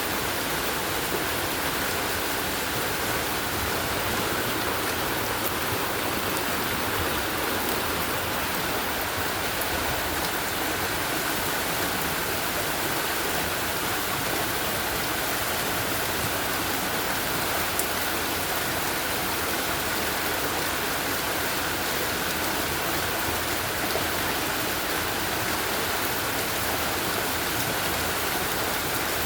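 Steady rain falling hard, an even, unbroken rush of water.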